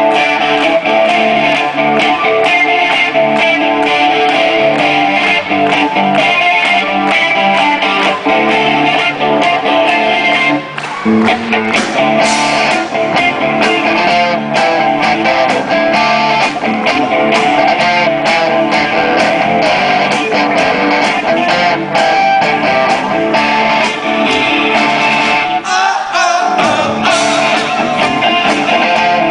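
Rock band playing live: electric guitars strumming over a steady drum beat, loud throughout, with a brief break about eleven seconds in.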